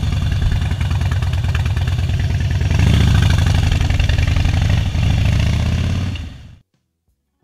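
Vehicle engine running while under way, with a steady pulsing beat. It gets louder about three seconds in, then drops away to silence a little after six seconds.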